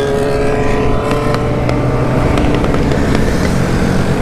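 Motorcycle engines running at a group ride, a steady engine note that sags slightly in pitch over the first couple of seconds, with a lower engine hum underneath.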